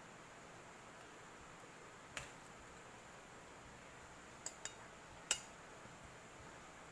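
A few faint short clicks and taps of eating by hand from a plate: one about two seconds in, a quick pair a little after four seconds, and the sharpest near five seconds, over quiet room tone.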